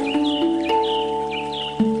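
Handpan notes ringing and overlapping, one struck sharply near the end, over a faint wash of flowing water. A bird calls repeatedly above them in short, high, falling notes, about two a second.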